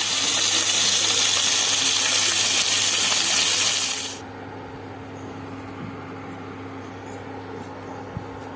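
Small whole fish frying in hot oil, a loud steady sizzle that cuts off abruptly about four seconds in, leaving a much quieter background with a few faint ticks and a small knock near the end.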